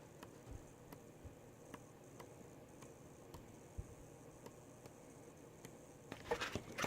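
Quiet handling of paper craft supplies: scattered faint taps and clicks, then a louder rustle about six seconds in.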